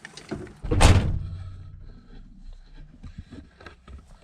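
A pickup truck door slammed shut once, about a second in, with a low boom that dies away over about a second, followed by faint small clicks and rustles.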